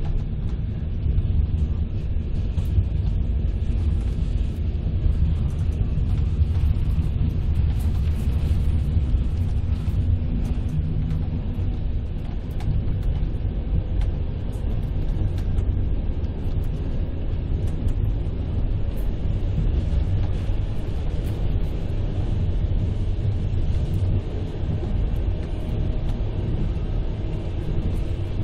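Passenger train running, heard from inside the carriage: a steady low rumble of the wheels on the track.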